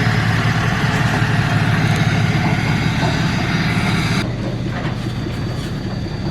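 Skid steer's diesel engine running hard close by, with a hissing whine over it that cuts off about four seconds in, leaving the engine running a little quieter.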